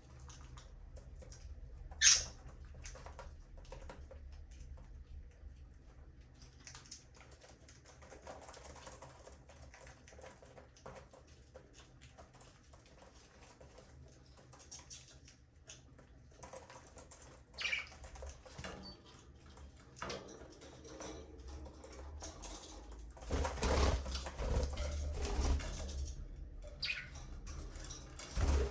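Budgerigars in an aviary: one loud, sharp chirp about two seconds in and a few fainter chirps later, over light scratching and pattering, with louder rustling toward the end. A low steady hum lies underneath.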